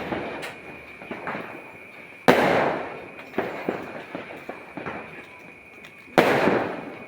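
Fireworks going off: two loud bangs, about two seconds and six seconds in, each followed by a fading rumble, with smaller pops and cracks between them.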